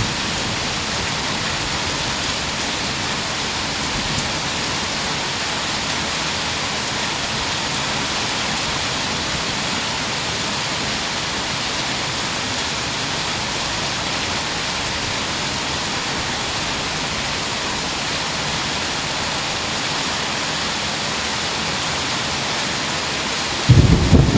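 Heavy rain pouring down steadily. Near the end a loud clap of thunder breaks in suddenly with a low rumble.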